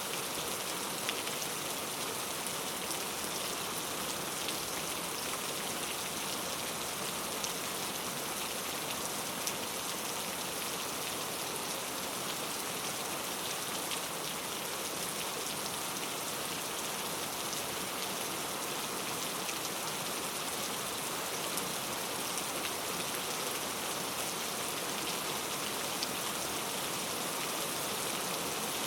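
Steady rain falling on foliage, an even hiss with scattered individual drops ticking through it.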